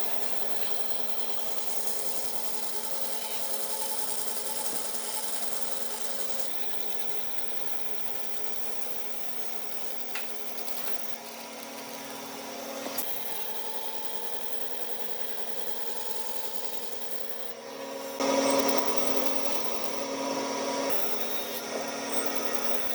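An electric power tool running steadily against wood, a motor hum under a rubbing, abrasive noise, growing louder about three-quarters of the way through.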